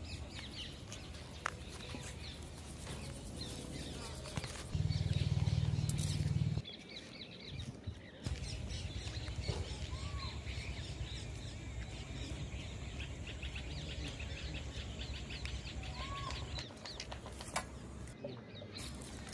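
Birds chirping over a steady low rumble, with a louder stretch of rumble about five seconds in.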